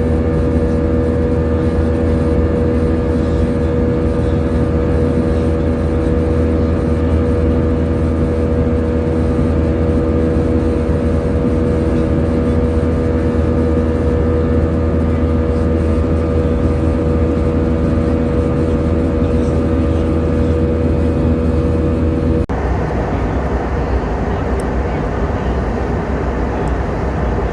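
Steady drone of an airliner in flight, heard inside the passenger cabin: a deep rumble with a steady hum of several tones over it. About 22 seconds in the hum cuts off suddenly, leaving a rougher, even rush.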